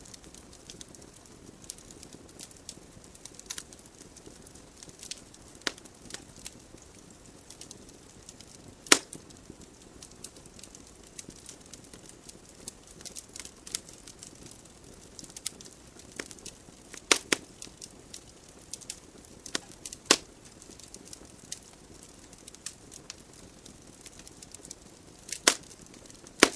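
Wood fire burning in a fireplace: a soft steady hiss of flames under irregular crackling, with a few sharp louder pops from the burning logs.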